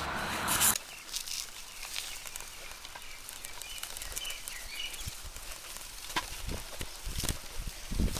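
Outdoor noise that cuts off abruptly less than a second in, followed by faint small-bird chirps over a quiet background with scattered soft knocks.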